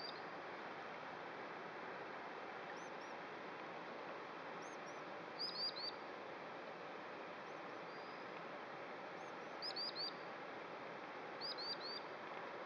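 A small songbird chirping: quick runs of three or four short, high notes, three times, with single notes in between. Under it is a steady outdoor hiss.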